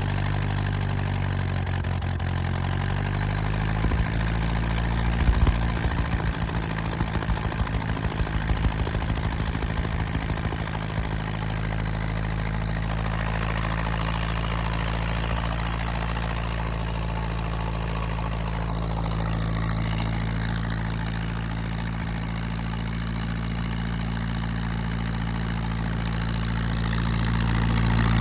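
Lincoln SA-200 welder's four-cylinder gasoline engine running just after a −20° cold start: its pitch shifts over the first few seconds, it runs rough and uneven, missing, from about four to eleven seconds in, then settles into a steady idle.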